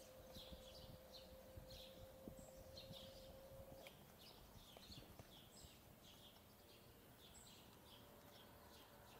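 Faint birdsong of many short, quick chirps from small songbirds, over a low street rumble. A steady hum drops out about four seconds in.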